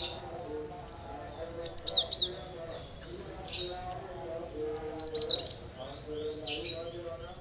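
Cinereous tit (gelatik batu) calling in short, sharp bursts of high chirps, about five clusters spaced a second or so apart, over a faint lower murmur of wavering tones.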